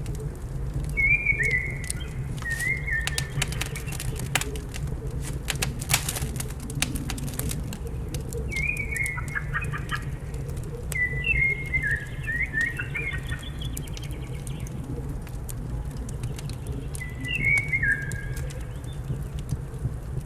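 A wood fire crackling, with a cluster of sharp pops a few seconds in, over a steady low rumble, while small birds call in short chirping phrases four or five times.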